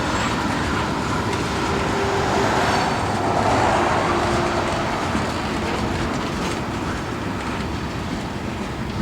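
CSX freight train rolling past: a steady rumble and rattle of rail cars on the track, swelling a little midway and easing slightly near the end.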